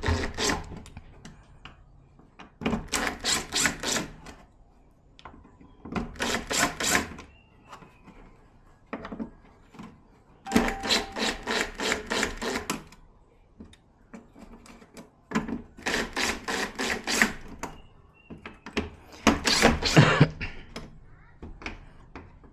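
Crackling, tearing bursts of a film or sheet being peeled off the inside of a flat-panel TV during disassembly, in about five pulls of one to two seconds each with pauses between.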